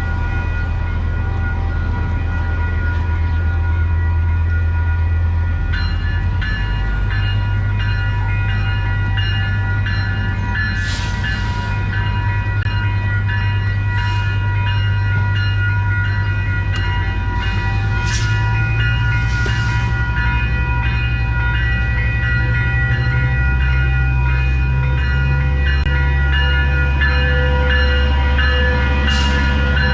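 Train running along the tracks: a steady low diesel engine drone that shifts in pitch a few times, with several steady high-pitched tones over it from about six seconds in.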